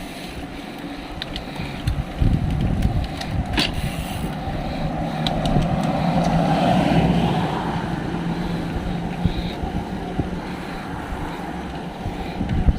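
A motor vehicle's engine hum and tyre noise swelling as it passes close by and then fading, with wind buffeting the microphone. A few short clicks sound about three and a half seconds in.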